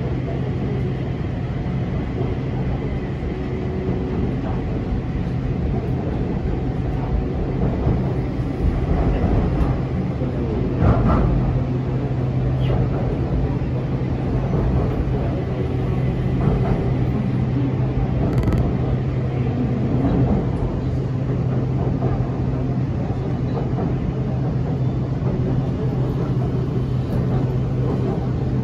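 BTS Skytrain electric train running along the line, heard from inside the carriage: a steady rumble of wheels on the track with a steady low hum that stops near the end. A single sharp knock about eleven seconds in.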